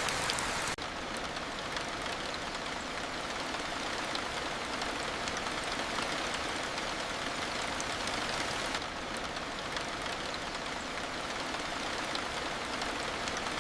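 Steady rain, an even hiss without distinct drops, that changes abruptly in texture about a second in and again about nine seconds in.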